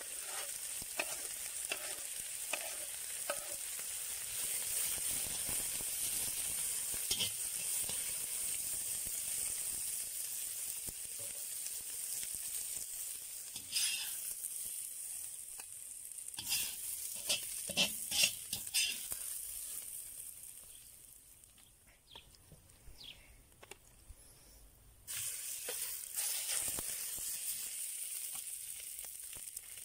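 Onion and carrot sizzling as they fry in butter in a cast-iron kazan, with a spatula scraping and knocking against the pan now and then. Near the end the sizzle drops low for a few seconds, then comes back loud all at once.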